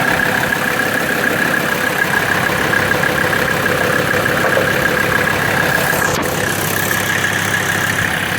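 Mercedes turbo diesel engine in a 4Runner idling steadily with a fast, even clatter and a steady high-pitched whine.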